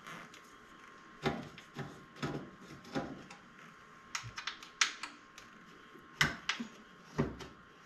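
Irregular light clicks and knocks, about ten of them at uneven intervals, as of hard objects being handled and set down.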